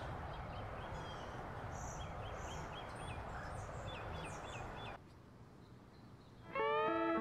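Outdoor ambience with small birds chirping in quick series of short repeated calls over a steady hiss; it cuts off abruptly about five seconds in. Near the end guitar music starts, with sliding notes.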